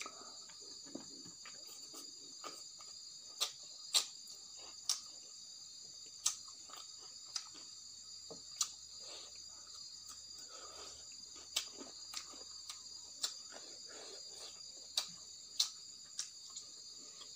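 Close-miked eating: irregular sharp, wet mouth clicks and chewing as rice and boiled fiddlehead fern curry are eaten by hand. Beneath them runs a steady high-pitched background drone.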